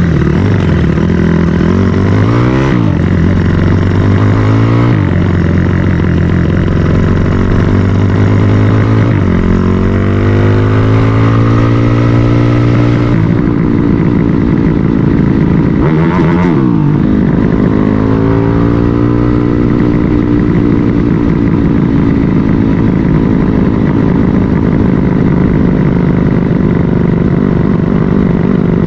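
Drag-race motorcycle engine revving hard: two short blips of the throttle, then a longer climb in revs, another sharp blip, and then it holds at a steady high rev.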